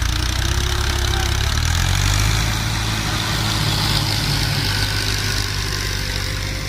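Diesel tractor engine running steadily, its pitch rising slightly about a second and a half in.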